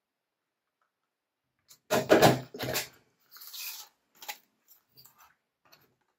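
Two heavy clunks from a hand fastening tool pressed through stacked paper folders, then a brief paper rustle and a few small clicks.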